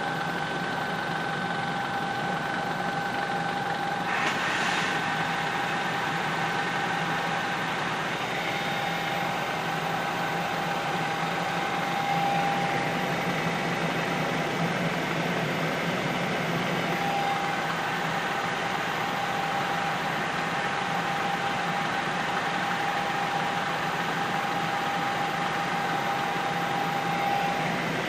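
Steady helicopter engine and rotor noise heard from inside the cabin: an even roar with a low hum under it and a constant high whine. A short hiss comes up briefly about four seconds in.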